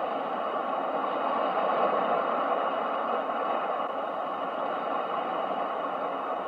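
Ocean waves as a steady rushing wash of surf noise, swelling gently about two seconds in and then slowly easing.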